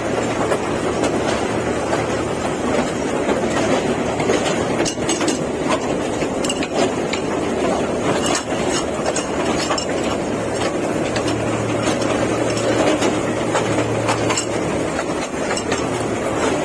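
Park toy train running along its track: a steady rumble with a low hum and scattered faint clicks.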